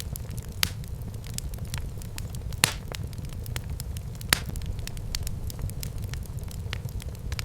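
Wood fire burning in a fireplace: a steady low rumble of flames with frequent sharp crackles and pops, two louder pops near the middle.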